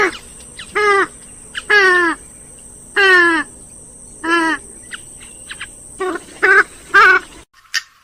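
Grey-headed swamphen calling: a series of loud calls, each about half a second long and falling in pitch, followed by a quicker run of three shorter calls; the sound cuts off suddenly near the end.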